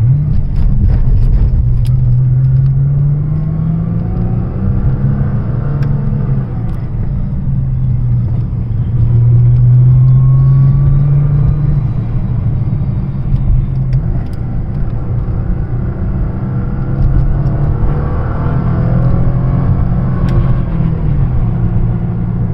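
Nissan GT-R engine heard from inside the cabin, accelerating and easing off along a winding road. Its pitch climbs and drops several times, loudest about ten seconds in, over steady road noise.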